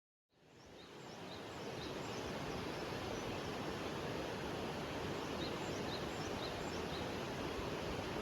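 Outdoor forest ambience fading in over the first second or two: a steady rushing background noise with small birds giving short, high chirps again and again.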